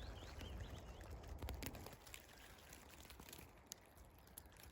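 Near silence: a low steady rumble with faint rustling and a few soft clicks.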